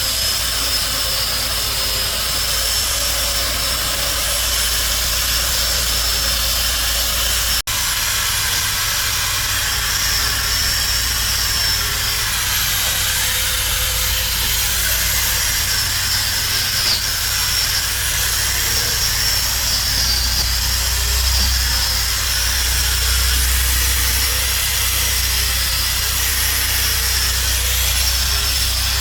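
A power tool running steadily and without a break, a loud, even whirring hiss. It cuts out for an instant about eight seconds in.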